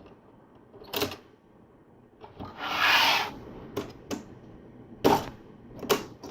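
LEGO plastic parts being handled, with sharp clicks and knocks, and about three seconds in a stiff plastic-on-plastic scraping rub as a trap-door piece is slid against friction.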